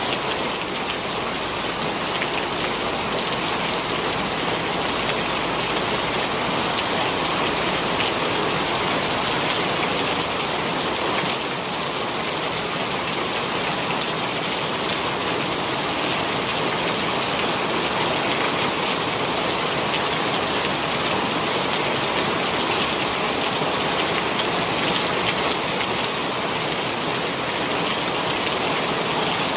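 Heavy rain pouring down steadily, a dense even hiss of drops on surfaces.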